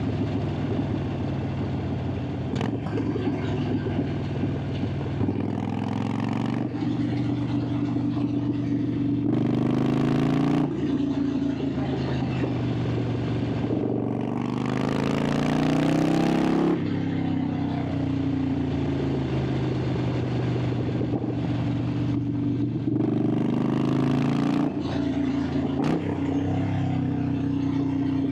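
Harley-Davidson Sportster 883's air-cooled V-twin running under load on a winding road, its exhaust note rising and falling with the throttle. Twice the pitch climbs as the bike pulls hard, with a rush of noise, then drops off abruptly.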